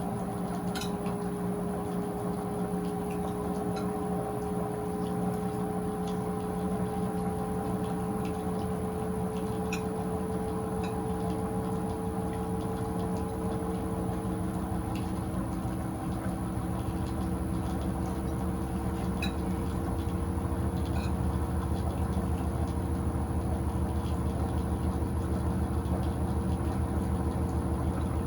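Electrolux Turbo Acqua Jet 15 kg top-load washing machine in its drain stage: a steady motor and pump hum with water draining out. One tone rises slowly, and the hum grows louder and deeper about seventeen seconds in.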